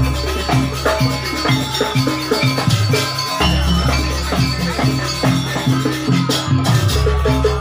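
Live jaranan ensemble music: drums and tuned percussion in a quick, steady rhythm, with a deep low tone starting anew about every three and a half seconds.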